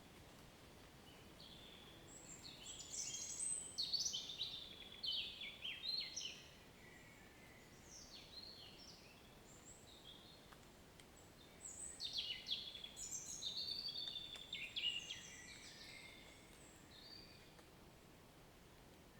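Songbird singing two long bouts of rapid, varied, high-pitched chirps and trills, one early and one past the middle, over a steady soft background hiss.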